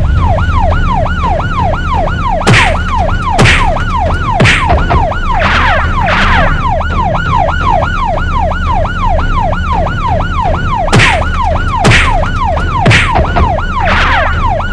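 Cartoon police siren: a fast, repeating wail falling in pitch about three times a second, over a steady low rumble. Sharp swishing hits punctuate it several times.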